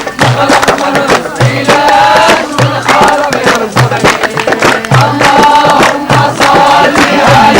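A group singing a chant-like song over hand percussion, with a low drum beat about once a second under quicker sharp strokes.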